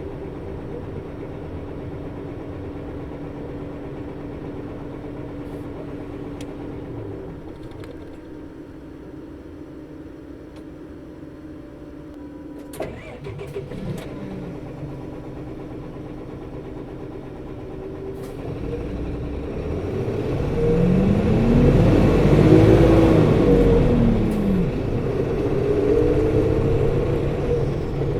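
Onboard running sound of a 2008 UD (Nissan Diesel) Space Runner RA city bus, PKG-RA274KAN, its diesel engine and engine-driven coupling fan humming steadily, with a few clicks about 13 seconds in. From about 18 seconds in the bus pulls away and gets louder, the engine pitch rising, turning over and falling again, then settling. The coupling fan's sound runs unusually high for the engine speed, a quirk of this particular bus.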